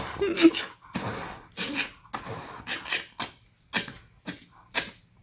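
A dog making a string of short, breathy noises at the nose and mouth, about two a second, with a brief pitched whine near the start.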